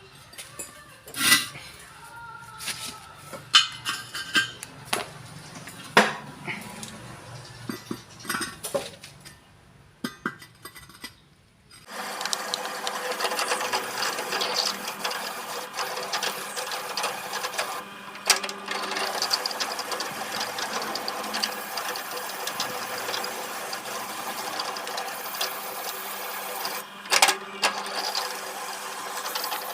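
Scattered metal knocks and clicks of hub machining work, then about twelve seconds in a machine starts and runs steadily with a fine rattle.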